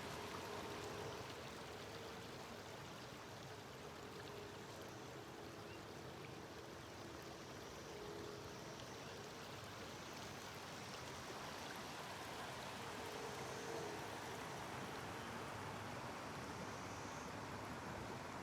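Steady rushing background noise, with a faint distant train horn sounding several short times.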